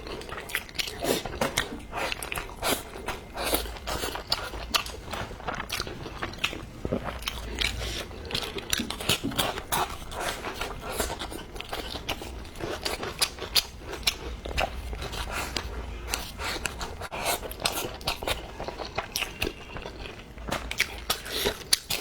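A person chewing and biting food up close, with a dense run of short, crunchy mouth clicks and smacks throughout.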